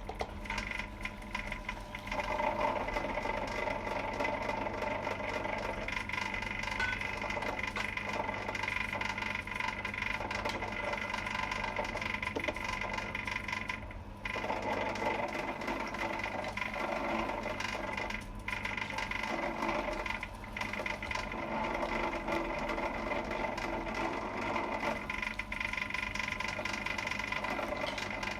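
A small electric machine running steadily with a continuous rattle.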